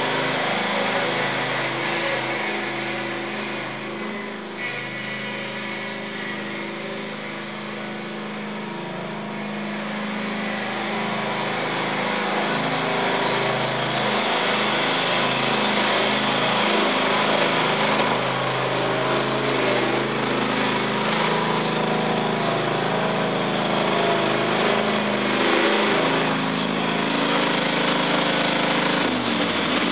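Small engine of a ride-on garden tractor running steadily. It goes quieter a few seconds in and louder again from about a third of the way through, then slows near the end.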